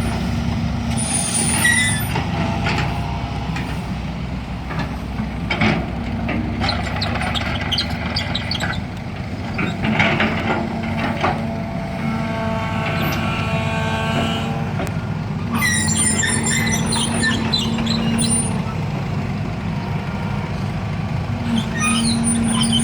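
Heavy diesel engine running steadily, with short squeals and hisses over it and a longer high squealing stretch around the middle.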